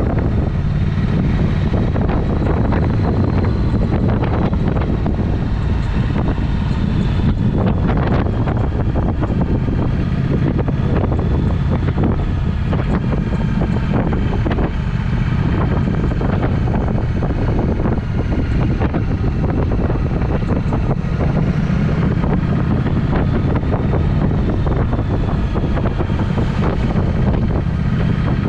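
Triumph Speed Twin's parallel-twin engine running through a Vance & Hines exhaust while riding, a steady engine note with heavy wind noise on the microphone.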